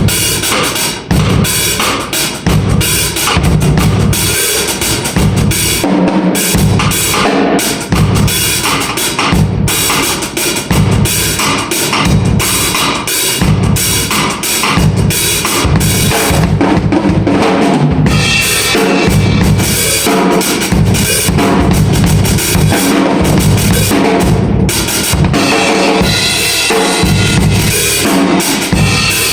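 A drum kit played continuously in a steady rhythm: bass drum and snare, with cymbals coming through more strongly in the latter part.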